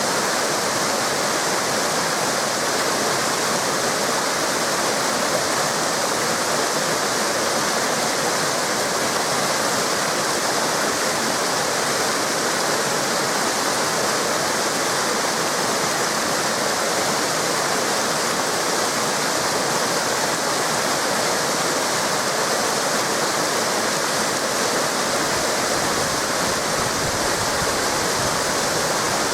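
Waterfall cascades pouring steadily, a continuous even rush of water.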